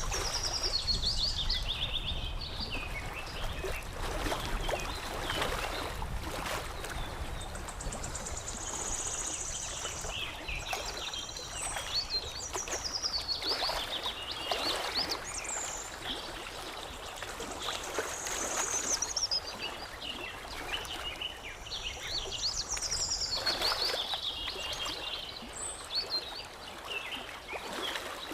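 Songbirds chirping in repeated high phrases that fall in pitch, over water lapping and trickling with small splashes.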